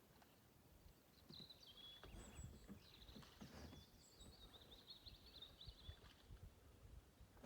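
A small bird singing a high twittering, trilling song for several seconds, faint, with a few low knocks underneath.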